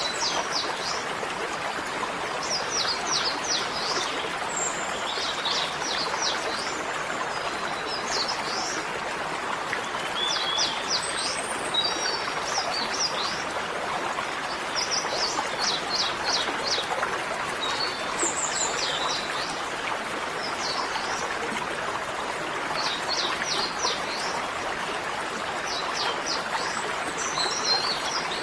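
Small birds chirping in quick series of four to six sharp notes, repeated every few seconds, over a steady rushing hiss.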